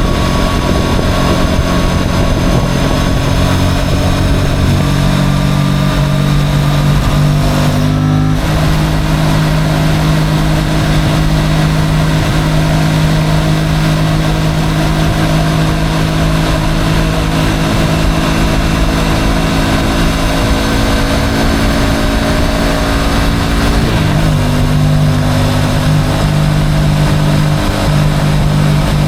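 Motorcycle engine running steadily while riding. The engine note shifts about eight seconds in and drops about twenty-four seconds in.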